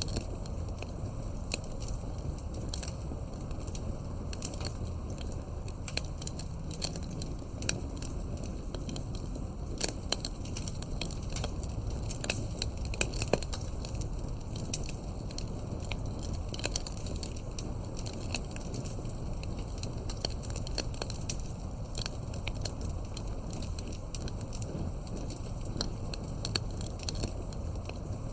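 Campfire burning: a dense, irregular run of crackles and sharp snaps over a steady low rumble, with a few louder pops, one of them about halfway through.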